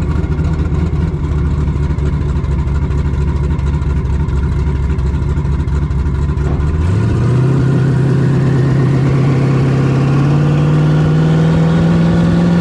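Twin-turbocharged 427 cubic-inch Dart-block V8 of a drag El Camino, heard from the cab, running steadily at low revs while driving; about seven seconds in the throttle opens and the revs climb steadily, with a rising turbo whine over the exhaust.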